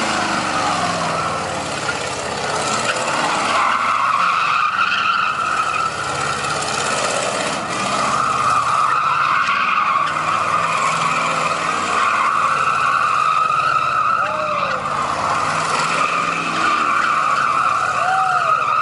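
Car tires squealing continuously as a car spins donuts, a sustained high screech with the engine running underneath.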